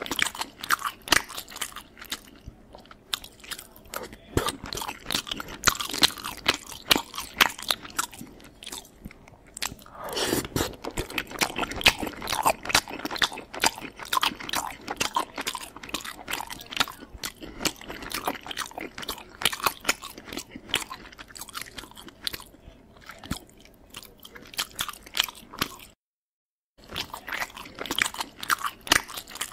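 A person chewing and crunching food close to the microphone: a dense run of irregular crunches and clicks. The sound cuts out completely for under a second near the end.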